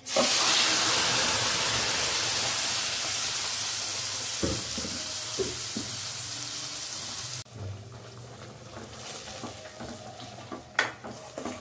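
Ground red chilli paste hitting hot sesame oil in a steel kadai, sizzling loudly at once and slowly easing off; the sizzle cuts off suddenly about seven seconds in. After that a quieter sizzle, with a spoon stirring and clicking against the pan near the end.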